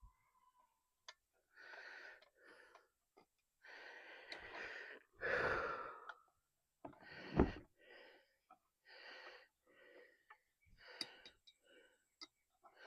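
A man breathing hard in about ten irregular, noisy puffs while straining at close work. A short sharp sound about seven and a half seconds in is the loudest.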